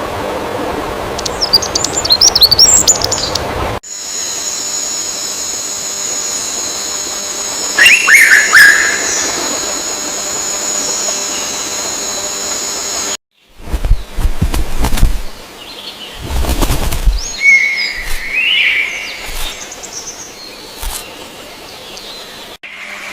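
Birds chirping in short calls across several spliced clips. A steady high whine runs behind the calls through the middle section, and a few low thumps come about two-thirds of the way in.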